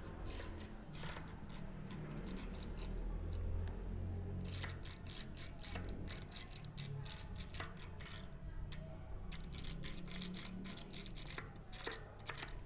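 Bicycle rear hub's freehub turned by hand, giving a run of irregular clicks and ticks: a noise that probably comes from water washing out the grease and letting sand into the freehub.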